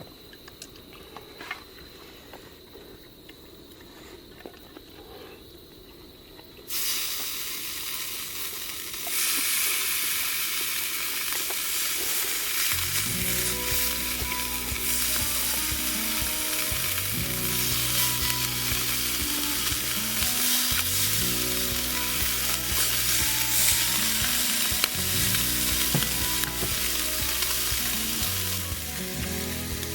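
Food sizzling as it fries in a hot pan. The sizzle starts suddenly about seven seconds in and grows louder a couple of seconds later. From about thirteen seconds, soft background music with low chords plays under it.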